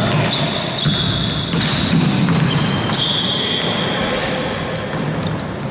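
Basketball game on court: a ball bouncing, sneakers squeaking on the floor in short high squeals, and players' voices calling out.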